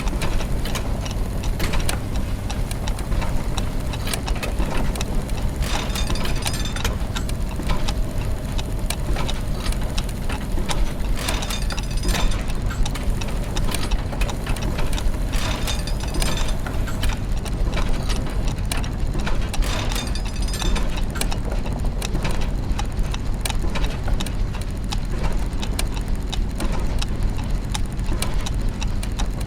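Layered clockwork machinery: many gears and ratchets turning with fast ticking and clicking over a low steady mechanical hum, with short bursts of brighter clattering every few seconds.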